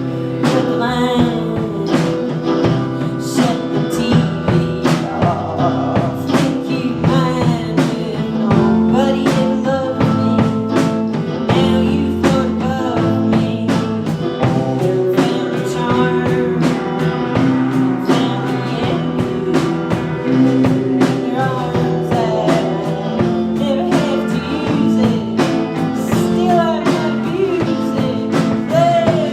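Live rock band playing loudly, with drum kit, guitar and a singer over the held chords.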